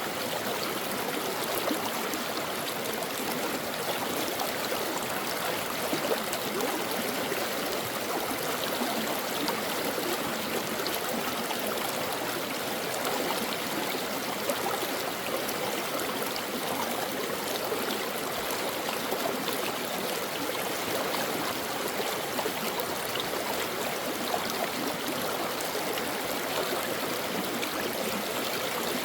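Stream water flowing and babbling steadily over rocks, with small trickles and splashes.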